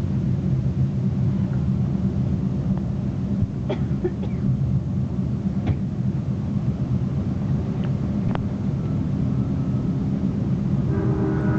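Steady low rumble of a passenger train running along the rails, heard from inside the car, with a few sharp clicks. A faint steady tone comes in near the end.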